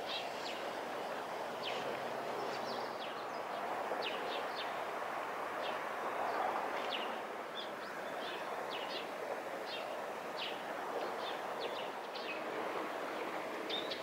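Small birds giving many short, high chirps, scattered irregularly, over a steady background rush.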